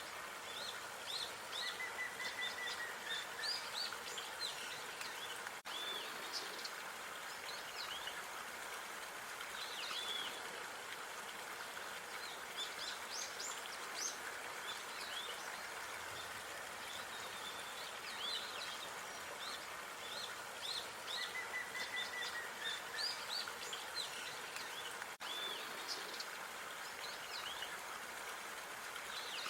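Small songbirds chirping in quick, repeated high calls, with a short trill twice, over a steady outdoor background hiss.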